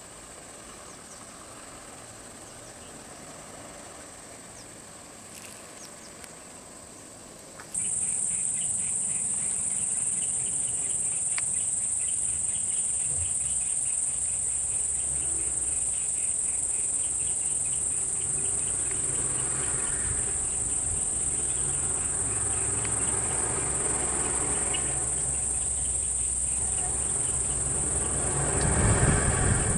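A steady, high-pitched insect chorus that becomes much louder about eight seconds in, over a low rumble.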